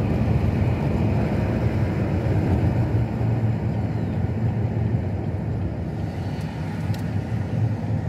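Steady road noise of a car driving along at speed: a low, even rumble of tyres and engine.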